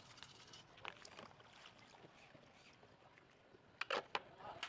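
Faint, scattered light clicks and knocks, with a louder cluster of sharp knocks near the end.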